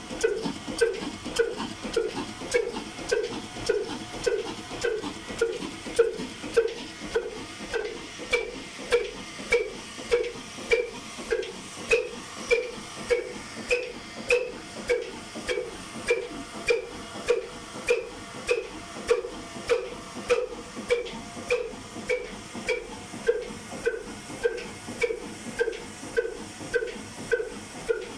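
Old black single-cylinder diesel engine running at a slow, even beat, about two exhaust puffs a second.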